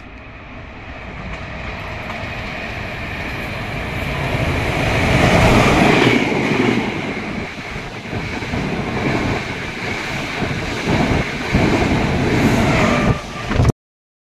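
Passenger train approaching along the platform, its noise building to a peak about five or six seconds in. The coaches then pass close by with a regular clickety-clack of wheels over the rail joints, until the sound cuts off suddenly near the end.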